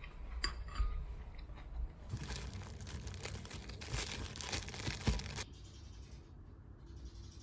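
A few light clicks, then about three seconds of dense crinkling rustle that cuts off suddenly.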